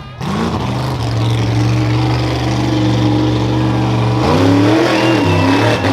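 A competing rough truck's engine running under throttle, held at steady revs. About four seconds in, the revs drop and then climb again.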